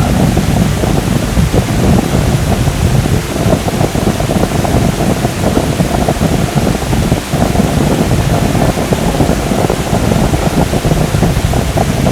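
Steady, loud rush of a large waterfall, Wli Waterfall's water falling into its plunge pool, a dense noise heaviest in the low range.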